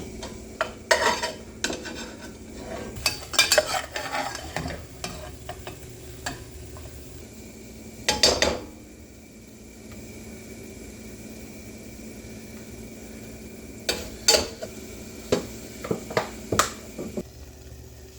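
A cooking utensil stirring, scraping and clinking against a pot or pan in several short bouts, over a steady background hum.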